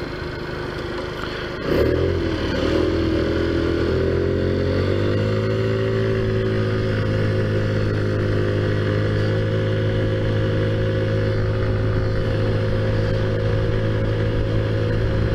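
Taotao Zummer moped's modified 50cc engine running under way. It gets louder about two seconds in as the throttle opens, rises in pitch over the next few seconds, then holds a steady note.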